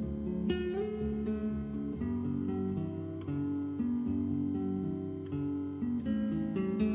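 Acoustic guitar music: plucked and strummed notes in a steady flowing melody.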